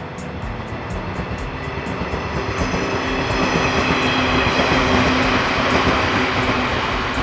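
Shinano Railway electric train passing: the rumble of wheels on rail with a whining motor tone grows louder, peaks about five seconds in, and starts to fade.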